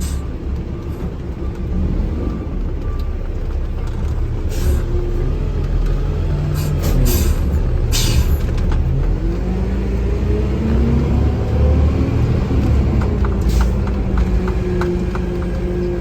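Vehicle engine and road noise heard from inside the cab as it drives in snow, the engine pitch climbing as it picks up speed about halfway through, with a few short hisses and a regular ticking near the end.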